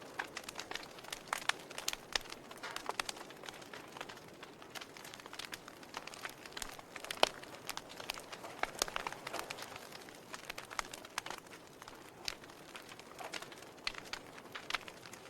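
Wood fire crackling: irregular sharp pops and snaps over a soft hiss of burning, with one louder pop about seven seconds in.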